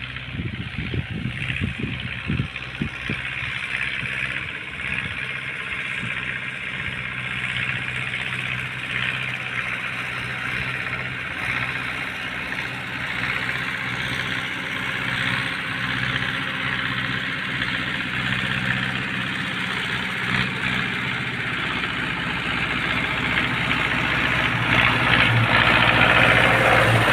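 Tractor engine running steadily while working a field, with a few clattering knocks in the first seconds. It grows louder near the end.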